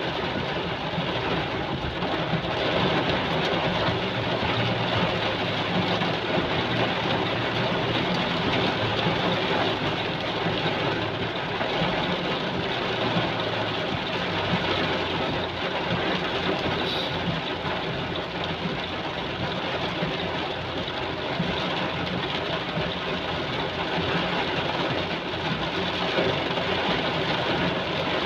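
Heavy rain falling in a steady downpour, with a low engine hum underneath.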